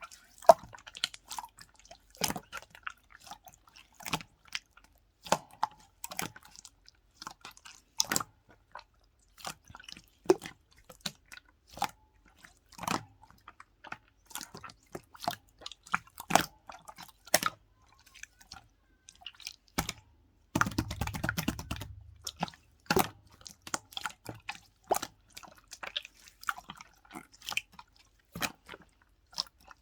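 Slime being squeezed and poked by hand, making irregular sticky clicks, pops and crackles. About two-thirds of the way through there is a denser stretch of rustling lasting a second or two.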